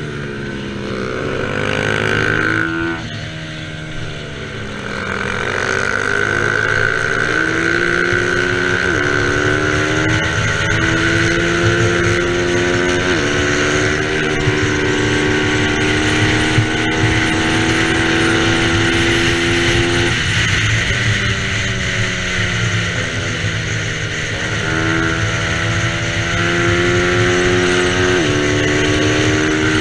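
Bajaj Pulsar 200 NS racing motorcycle engine at high revs. The revs dip and rise in the first few seconds, as if braking and downshifting for a corner, then climb slowly under full acceleration with three sharp drops at upshifts.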